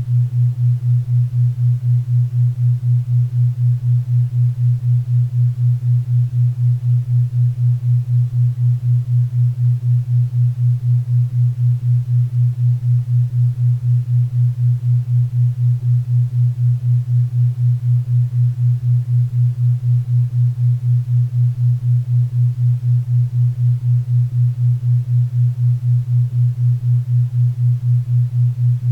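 Low hum-like tone pulsing evenly about four times a second: a 4 Hz theta-wave beat, over a faint bed of pink and brown noise.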